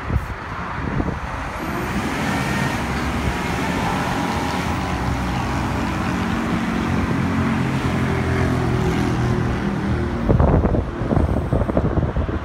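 Cat TL1255C telehandler's diesel engine rising in speed and then running steadily at raised revs. Near the end there are irregular rumbling thumps.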